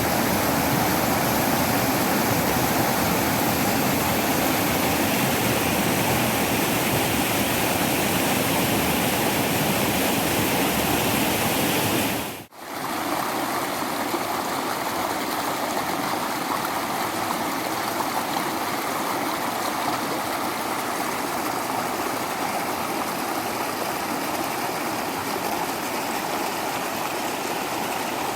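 Waterfall water rushing steadily. About halfway through it drops out for an instant, then resumes slightly quieter with less low rumble.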